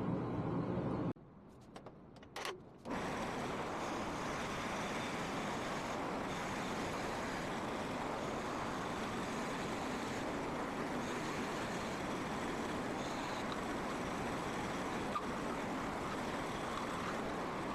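Shopsmith woodworking machine running steadily under power. It drops out about a second in, with a few light clicks during the gap, then runs steadily again.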